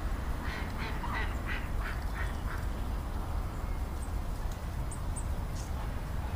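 A duck quacking on the water, a quick run of about eight quacks in a couple of seconds, then stopping, over a steady low rumble.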